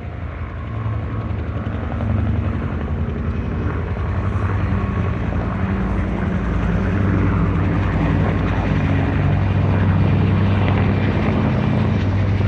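Aircraft engine running with a steady low drone, growing louder over the first couple of seconds and then holding.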